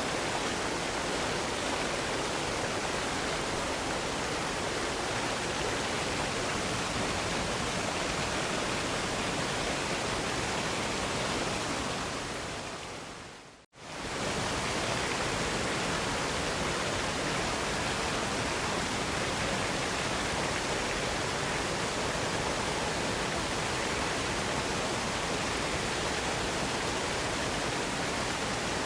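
Steady, even rush of a waterfall, falling water spread across low and high pitches alike. About halfway through it fades out over a second or so to a moment of silence and comes back almost at once.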